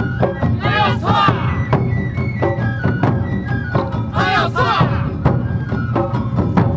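Awa Odori festival music: a flute melody over steadily struck drums and bells, with dancers twice breaking into a group shout of chanted calls.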